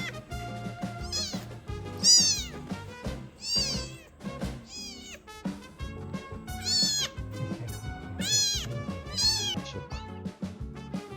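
A young kitten meowing again and again, about seven high-pitched meows, each rising and then falling, over background music.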